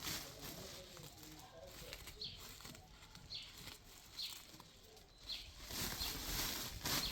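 A bird chirping, a short high note about once a second, over a background of rustling noise.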